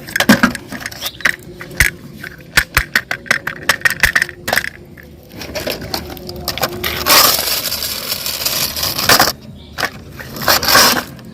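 Toys being handled, with a quick run of sharp clicks and clatters. About seven seconds in comes a couple of seconds of steady scraping noise, and a shorter burst follows near the end.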